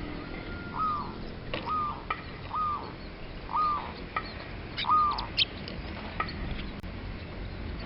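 A wild bird calling in a series of five short, hoarse notes, about one a second, each rising and then falling in pitch. Sharper, higher chirps are mixed in, clustered around the middle.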